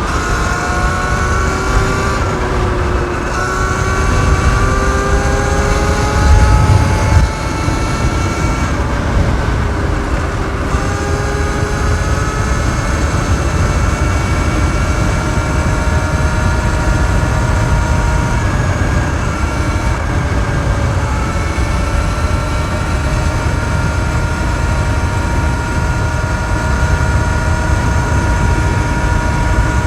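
Sur-Ron Light Bee electric dirt bike riding. Its motor whine climbs in pitch in several stretches as the bike gathers speed, then holds steady while it cruises. Heavy wind noise on the microphone runs under it, with a loud gust about seven seconds in.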